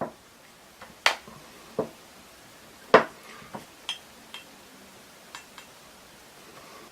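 A series of sharp clicks and light clinks, about eight, scattered irregularly, the loudest near the start and about three seconds in: a paintbrush knocking against hard palette dishes while watercolour paint is mixed.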